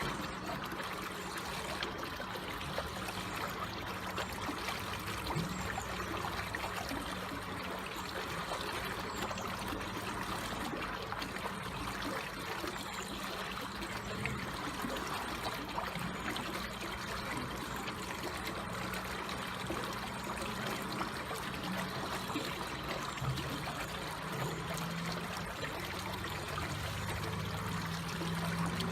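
Slowly flowing water trickling steadily with an even, unbroken rush.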